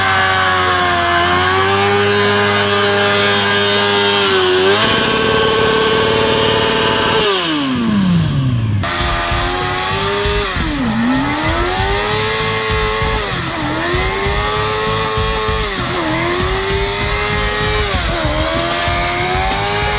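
Motorcycle engine revving hard, held high, during a chainsaw burnout. The revs hold steady for a couple of seconds, a tone glides down about seven seconds in and cuts off suddenly, and after that the revs dip and climb back about every two and a half seconds.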